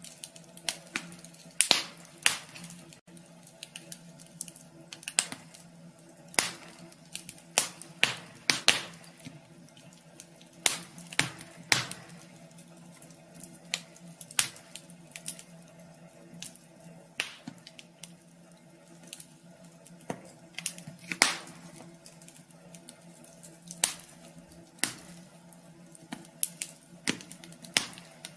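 Wood fire crackling in a wood stove: irregular sharp pops and snaps at uneven spacing, over a faint steady hum.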